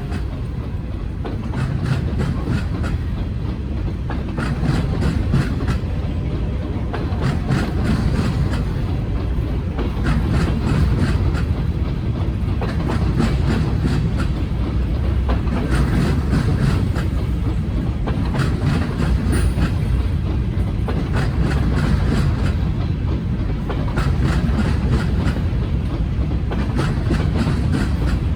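Freight train cars rolling past close by: a steady low rumble of wheels on rail, with repeated clusters of clicks as the wheels cross rail joints.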